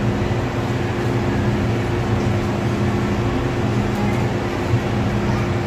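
MTR Disneyland Resort Line M-Train giving a steady mechanical hum, with a few constant low tones over even noise.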